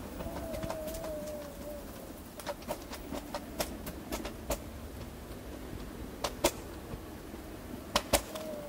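A bird calls with a drawn-out, wavering note about two seconds long near the start and again briefly near the end. Irregular sharp clicks come through the middle and end.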